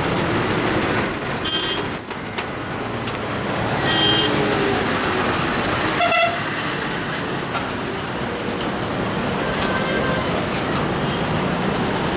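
Engines of a farm harvester and heavy trucks running steadily at a hairpin bend, with a few short horn toots.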